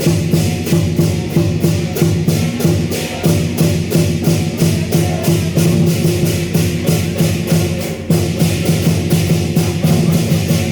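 Chinese dragon and lion dance percussion: drum and cymbals beating a fast, even rhythm of about five strokes a second, with a steady low ringing underneath.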